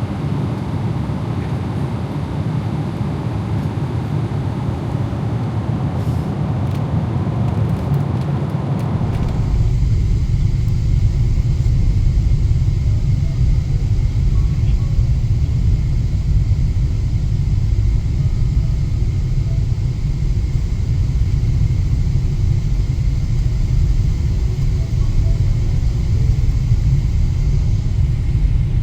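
Steady cabin noise of a Boeing 777-300ER airliner in flight, a broad hiss. About nine seconds in it changes abruptly to a deeper, steady low rumble as the aircraft comes in to land.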